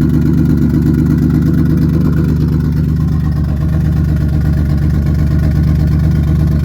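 Turbocharged Infiniti G35's 3.5-litre V6 running steadily at a constant engine speed, loud and unsilenced, because its exhaust downpipe is not yet finished.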